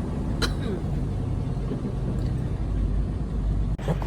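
Semi-truck's diesel engine running steadily while the truck backs up, heard from inside the cab, with a single sharp click about half a second in. The sound breaks off abruptly just before the end.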